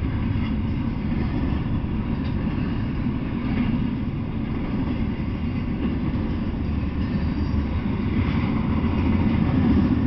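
Double-stack intermodal freight train rolling past, a steady low rumble of wheels on rail that grows a little louder near the end.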